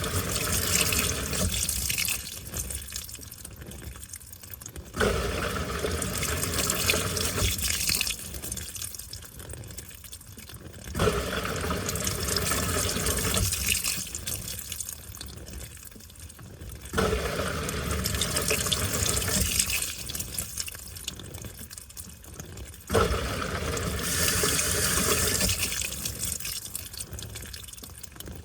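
Washing machine mid-wash, water sloshing and churning inside the tub. The agitation surges in about every six seconds and runs loud for a few seconds before easing back.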